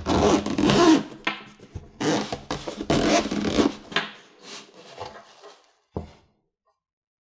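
Product packaging being handled during unboxing: two long rubbing, sliding scrapes of cardboard and plastic, then lighter rustling and a soft knock near the end.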